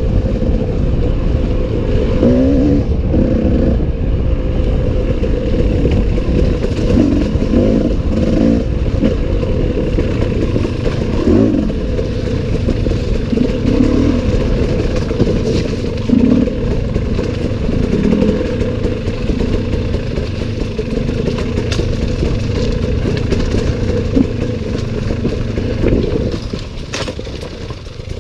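Enduro motorcycle engine running hard and close up, its revs rising and falling over and over, then easing off for the last couple of seconds.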